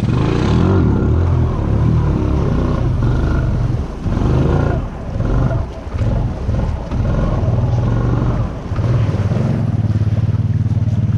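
Honda Rancher 420 ATV's single-cylinder engine working under load through a water-filled rut, the throttle rising and easing off a few times. It settles to a steady lower throb near the end, with a hiss of water noise over the engine.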